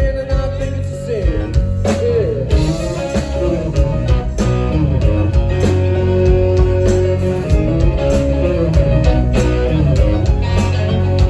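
A live band playing an instrumental passage: guitar carries a shifting melodic line over bass and regular drum strikes.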